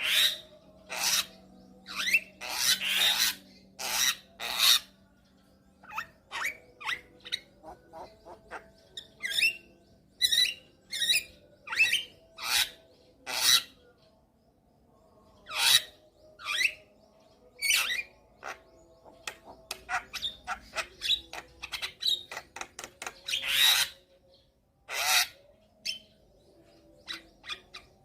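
Javan myna (jalak kebo) singing a varied, rapid string of harsh squawks, short whistled notes and clicks, with a fast run of ticking notes past the middle.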